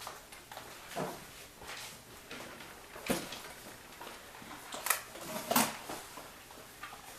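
A handful of short knocks and clicks a second or two apart, with low room noise between them.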